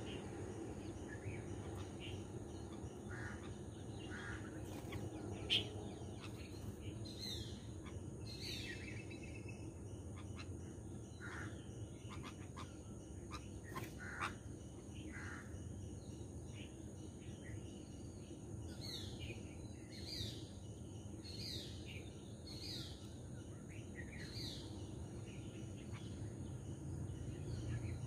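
Birds chirping in short, falling calls, bunched about a third of the way in and again through the last third, over a steady high-pitched hum and a low background rumble. One sharp click about five seconds in.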